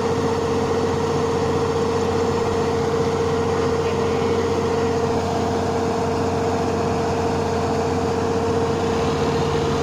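Rice combine harvester's engine running steadily, a constant drone with a steady whine over it.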